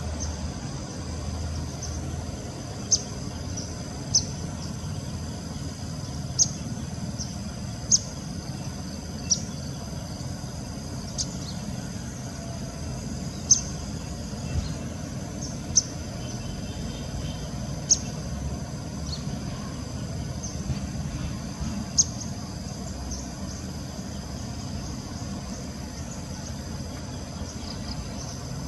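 A bird gives short, sharp chirps every second or two, which stop about 22 seconds in. Under them runs a steady high insect drone and constant low rumbling background noise.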